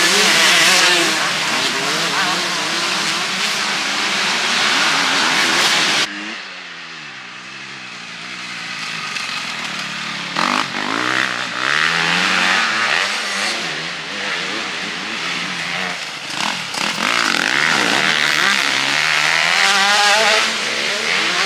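Motocross bikes racing, their engines revving up and down as they pass. About six seconds in the sound cuts suddenly to a quieter stretch, and the engines build up again a few seconds later.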